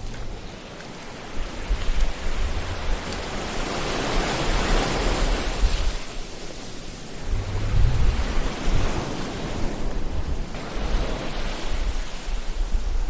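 Ocean surf: waves washing in, swelling to a peak about four seconds in and again about eight seconds in, with a low wind rumble underneath.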